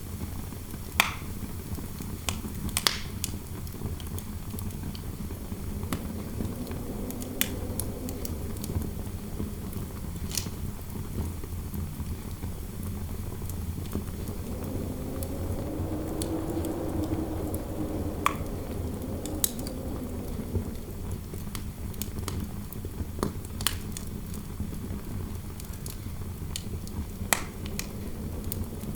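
Fireplace fire crackling, with irregular sharp pops over a steady low rumble of flame and interior wind. A soft wind howl swells and fades a few seconds in, and again more strongly around the middle.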